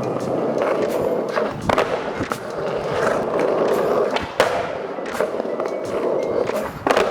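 Skateboard wheels rolling over concrete, broken by several sharp clacks of the board popping and landing during trick attempts, the loudest about midway through.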